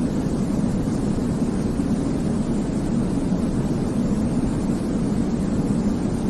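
Baby-sleep white noise: a steady, even rushing hiss weighted toward the low end, like a deep rumble, with no change or break.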